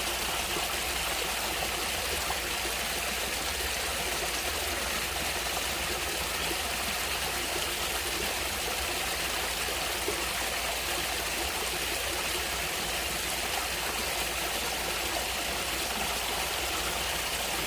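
Stream water flowing and splashing steadily, an even rushing sound with no breaks.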